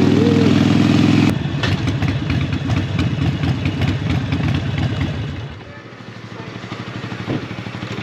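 Motorcycle engine held at high, steady revs, then dropping off abruptly with a click about a second in; it carries on lower and rougher and fades away about five seconds in.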